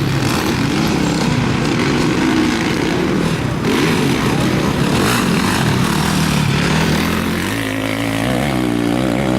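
Motocross motorcycle engines racing, revving up and down with throttle and gear changes, with a quick rise and fall in revs near the end.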